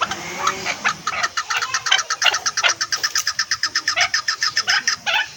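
Chukar partridge calling: a rapid, even run of short notes, about eight or nine a second, starting about a second in and stopping near the end.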